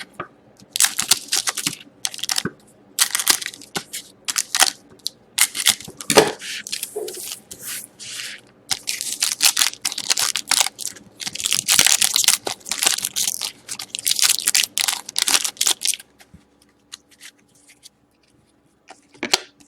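Trading card pack wrappers being torn open and crumpled, a run of crinkly, crackling tears and crunches that stops about four seconds before the end.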